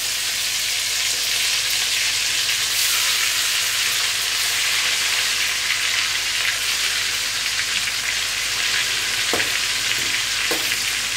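Food sizzling in shallow hot oil in a wok, a steady frying hiss, while a metal spatula turns the pieces, with a couple of light spatula taps near the end.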